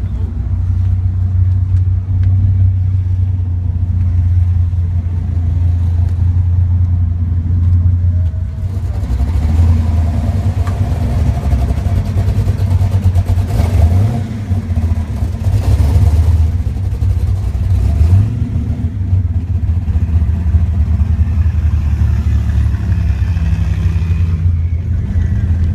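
Car engine running with a deep, steady low rumble, turning rougher and more uneven from about eight seconds in.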